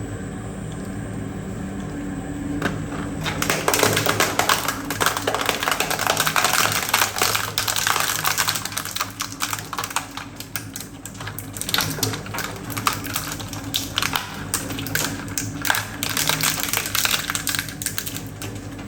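Industrial shredder running with a steady motor hum, then from about three seconds in a dense, irregular crunching and cracking as material is torn apart in the cutters.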